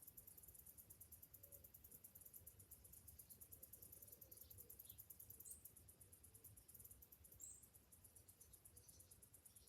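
Summer cicadas singing faintly: a high, rapid pulsing buzz that stops near the end.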